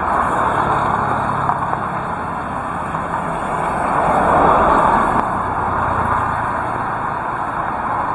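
Heavy rain falling in a steady hiss, swelling louder about four to five seconds in.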